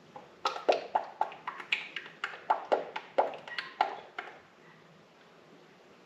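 Motor oil glugging out of a plastic jug as it is poured into the engine's fill opening: a quick run of about four glugs a second that starts about half a second in and stops about four seconds in.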